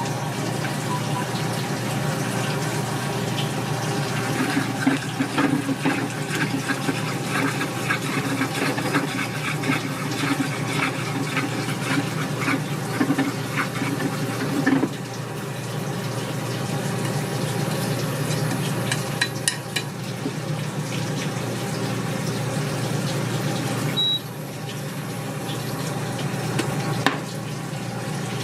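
A steady rushing hiss with many short metal clinks and scrapes through the first half, as at a wok or griddle cooking station. The sound changes abruptly a few times.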